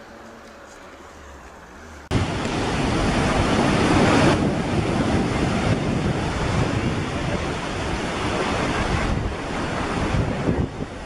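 Loud, steady rushing noise of wind and surf, cutting in suddenly about two seconds in after a quieter stretch.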